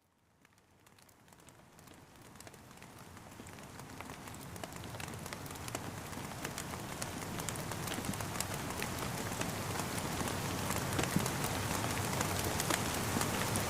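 Steady rain with many small, sharp drop ticks, fading in from silence and growing steadily louder throughout.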